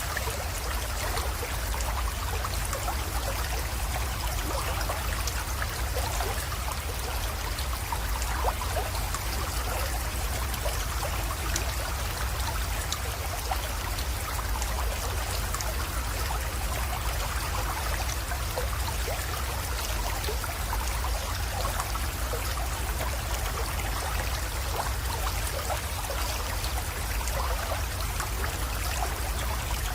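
Small mountain creek flowing and trickling steadily over stones into a pond, with many small splashes and a steady low rumble underneath.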